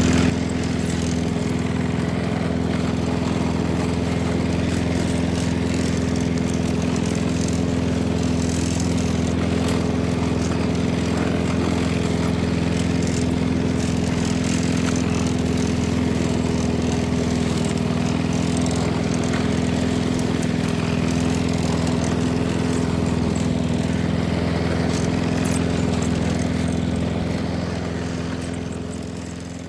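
Petrol self-propelled lawn mower engine running steadily while mowing grass, fading out near the end.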